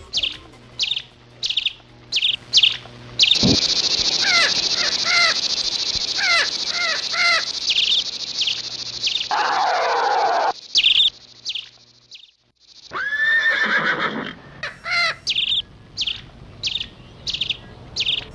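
Birds chirping: a short high chirp repeated about every half second, with a louder, denser stretch of bird calls over a hiss in the middle, broken by a moment of silence.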